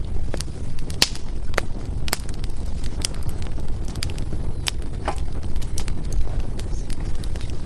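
Wood fire in a fireplace crackling: irregular sharp pops and snaps from the burning firewood over a steady low rumble of the flames.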